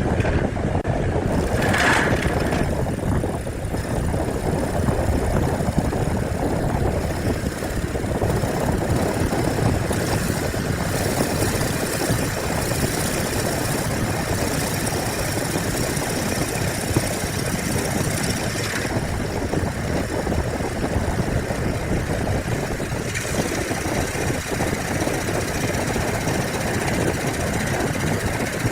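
A woodworking power tool running steadily and loudly without a break, with a brief higher-pitched note about two seconds in.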